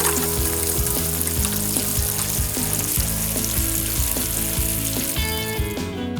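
A steady sizzling hiss over background music, stopping about five seconds in.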